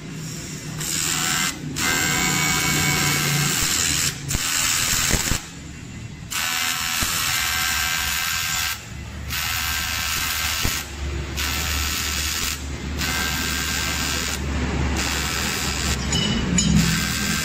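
Electric welding arc on an aluminium engine case, buzzing with a steady hiss. It starts about a second in, then stops and restarts several times with short pauses as the weld is laid in bits.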